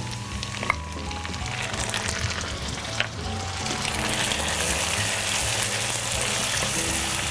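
Chopped tomatoes frying and sizzling in hot oil with lamb and onion, stirred with a wooden spatula. The sizzle grows louder about four seconds in, and there are two sharp clicks, about one and three seconds in.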